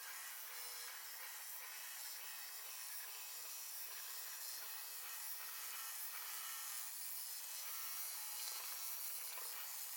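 Deebot T8+ robot vacuum running with its oscillating mopping attachment scrubbing the floor: a steady rasping whir, played back sped up.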